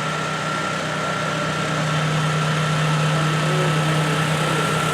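Steady engine hum, like a vehicle idling, with a constant high tone over a noisy background.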